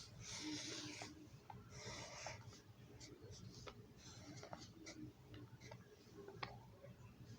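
Sharpie marker drawing on notebook paper: faint scratchy strokes, strongest in the first two seconds or so, with scattered soft clicks and taps between them.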